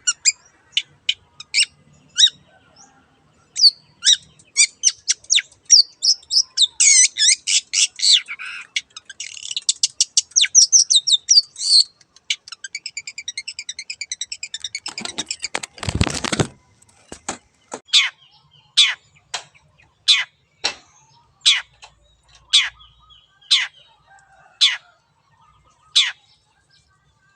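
Long-tailed shrike (cendet) singing: sharp downward-sweeping notes, a dense fast chattering run, and a loud harsh burst about 15 seconds in. After the burst come single sharp falling notes at about one a second.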